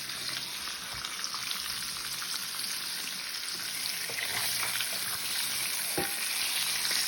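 Breaded chicken Kiev rolls sizzling in hot frying oil: a steady, even hiss, with a couple of faint clicks about a second in and near the end.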